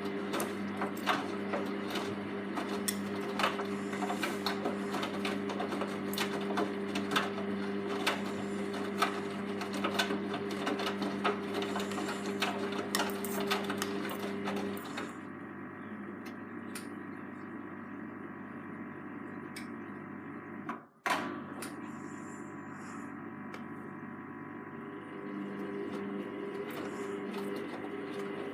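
Hoover Vision Tech VT 914 D22X washing machine in its 40 °C mixed wash cycle: the drum motor runs with a steady hum and many small clicks and knocks. About halfway through it stops and goes quieter, and near the end the motor starts turning the drum again.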